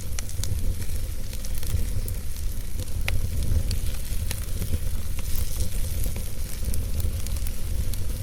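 Wood fire crackling in a fireplace: scattered sharp snaps and pops over a steady low rumble of the flames.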